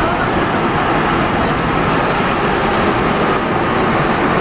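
Rubber-tyred NS-74 metro train running: a steady, loud rolling rumble with a faint whine held through it.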